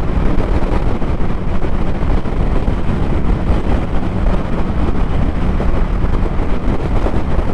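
Motorcycle running at a steady road speed, its engine drone mixed with wind rushing over the microphone.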